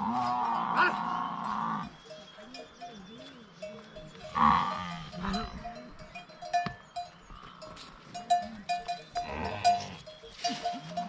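Bells on grazing livestock clinking again and again, while the animals call out: a long call at the start, another a few seconds in, and one more near the end.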